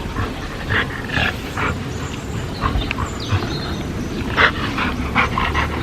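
A dog giving a run of short barks and yips, about a dozen in all and irregularly spaced, over a steady low rumble.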